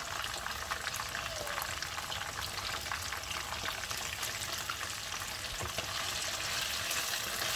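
Marinated chicken 65 pieces frying in hot oil, a steady crackling sizzle with many small pops.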